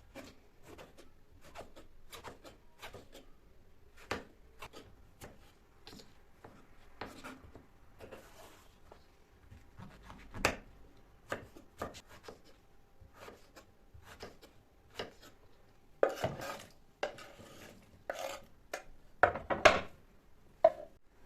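Knife chopping on a cutting board, with irregular strokes a few times a second, then a few louder clatters near the end.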